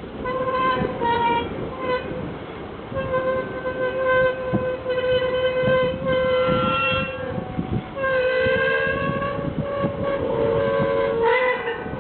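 Squealing pivot of a disused stile gate being swung: a run of drawn-out, horn-like squeals at a fairly steady middle pitch. A few short squeals come first, then longer ones of two to three seconds, and the last one wavers.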